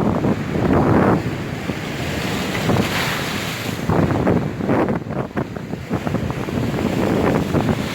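Storm waves breaking and washing on the shore in strong wind, with gusts buffeting the microphone; a hissing surge of water about three seconds in.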